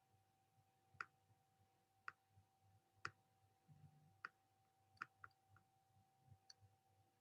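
Near silence with a faint steady hum and faint, sharp clicks about once a second, three of them in quick succession around the middle.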